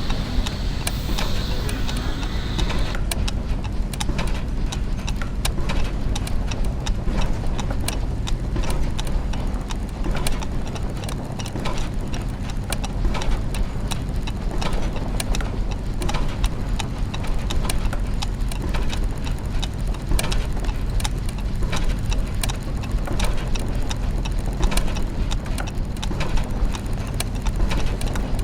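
Clockwork and gear machinery: dense, irregular ticking and clicking of gears and escapements over a steady low mechanical hum. A higher hiss drops out about three seconds in.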